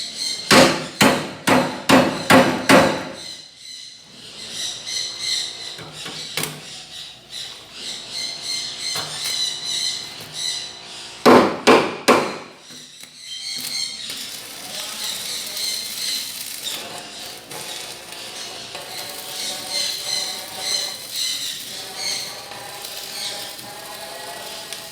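Hammer blows at about three a second: a run of about six in the first few seconds, then a pause and a second run of about four about halfway through.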